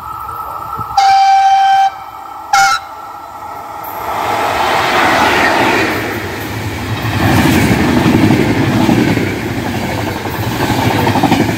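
Italian Intercity passenger train hauled by E414 electric locomotives, sounding one long horn blast about a second in and a short toot just after. It then runs through at speed, its coaches passing with a loud rushing, rolling rail noise that builds from about four seconds in.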